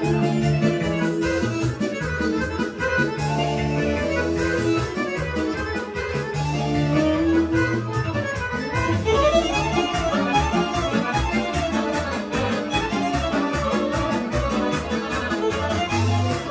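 Serbian folk band playing a fast kolo dance medley, with accordion carrying the melody and fiddle over a quick, steady beat. The tune moves into a new phrase about nine seconds in.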